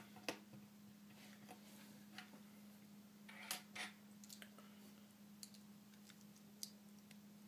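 Faint scattered clicks of plastic Lego bricks being handled and pressed together, the louder ones about three and a half seconds in, over a faint steady hum.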